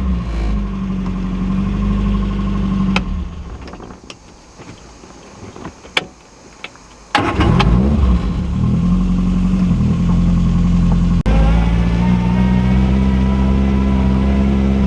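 MG Midget 1275 A-series four-cylinder engine running, falling away about three seconds in, then coming back loud with a rev about seven seconds in and settling to a steady run.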